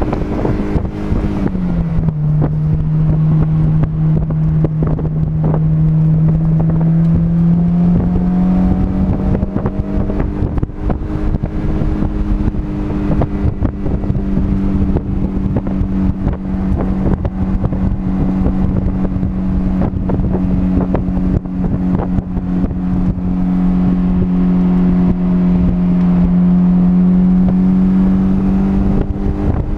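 Car engine running at a steady speed with wind buffeting the microphone; the engine's pitch drops about a second in, rises a little around eight seconds, and then holds steady.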